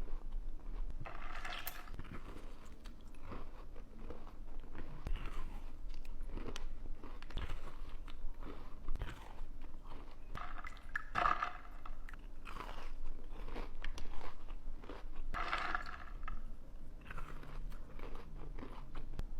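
Close-miked eating: crunchy food being bitten and chewed, with irregular crunches.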